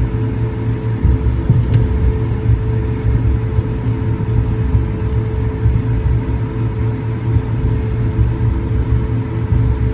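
Airbus A220-100 cabin noise on the ground before takeoff: a steady low rumble with a constant hum from the aircraft's engines and systems. There is a single light click about two seconds in.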